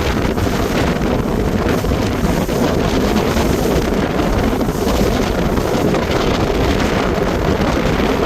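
Strong wind buffeting the microphone, a loud, steady rumbling noise, over the sound of a pontoon boat running through choppy water.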